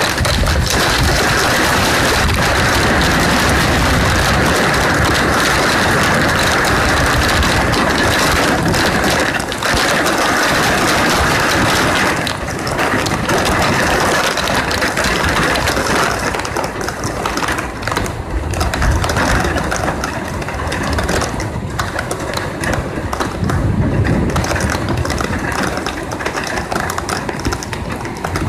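Heavy rain drumming on a ledge and directly on the body of the phone recording it: a dense, continuous patter of drop impacts, thinning a little in the second half.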